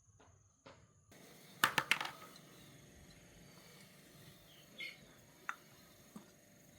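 Sharp clicks and knocks of small hard objects: a quick cluster of three or four about one and a half seconds in, then a few single ones.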